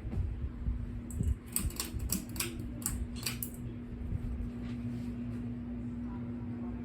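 A 42-inch Harbor Breeze Armitage ceiling fan running with a steady motor hum, and a rapid run of sharp clicks between about one and three and a half seconds in.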